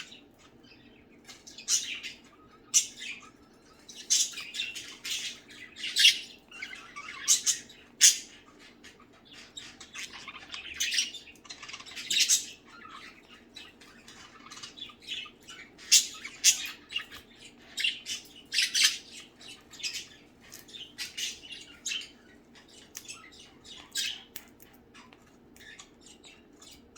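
Several pet budgerigars chirping and squawking in short, irregular calls, over a faint steady low hum.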